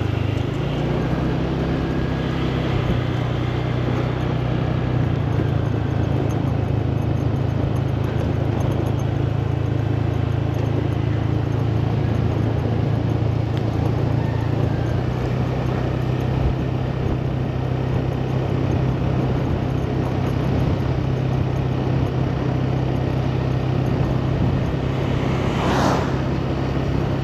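Motor scooter engine running steadily while riding, a constant low hum under wind and road noise. Near the end a short swelling whoosh cuts across it.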